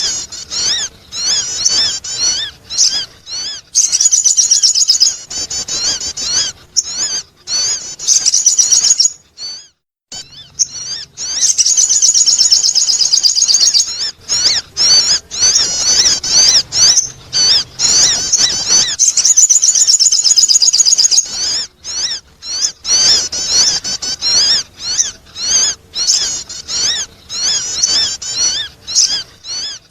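Sogon bird calling, used as a lure sound to attract birds: long runs of rapid, high chirping notes with short pauses between them, and a brief complete break about ten seconds in.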